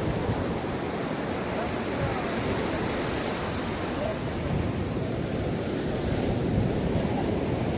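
Ocean surf washing onto a beach: a steady rush of breaking waves that swells a little near the end.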